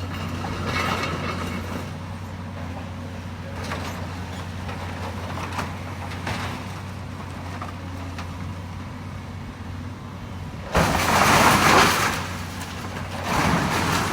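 Demolition excavator's diesel engine running steadily while it tears at the building. About eleven seconds in comes a sudden loud crash of debris lasting over a second, and a shorter crash near the end.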